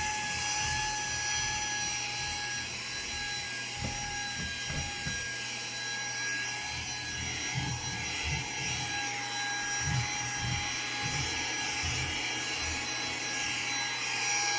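Saker 3-in-1 brushless cordless mini vacuum cleaner running steadily with a high whine, its carpet nozzle scrubbing and knocking against a carpeted stair step.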